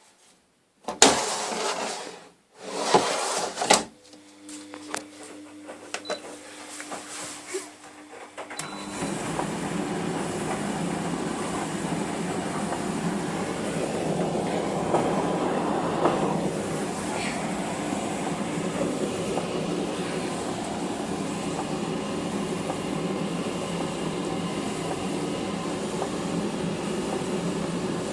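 Household laundry machine: a few loud knocks in the first seconds, then a low steady motor hum, then from about nine seconds a loud, even rumble as the machine gets going and runs.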